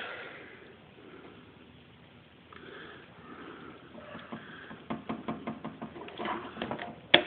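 Small metal clicks and taps, sparse at first and coming quickly in the last couple of seconds, with one sharp click near the end: a snap ring being worked into its groove to hold a plug in an AC compressor.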